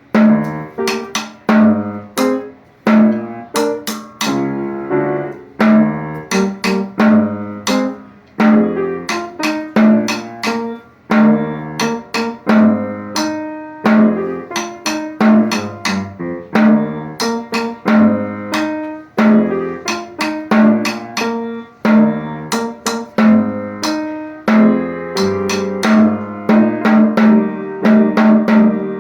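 Percussion music: sharply struck drum and pitched notes in a steady rhythm, each note ringing briefly and dying away, starting right after a count-off.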